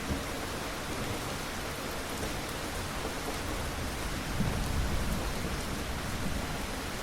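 Steady rain falling on a surface as an even hiss, with a low rumble swelling briefly about four and a half seconds in.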